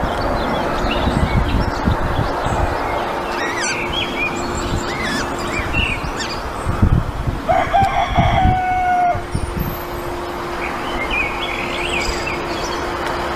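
A rooster crows once, a drawn-out call of about a second and a half about two-thirds of the way through. Small birds chirp briefly before and after it, over a steady low rumble of wind and open-air noise.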